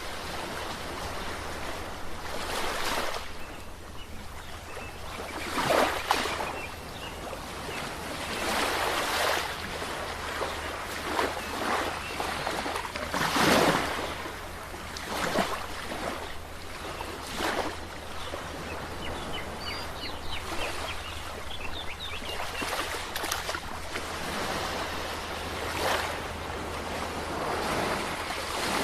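Ocean waves breaking and washing on a shore: a continuous rushing hiss with a wave crashing every few seconds, the strongest about halfway through.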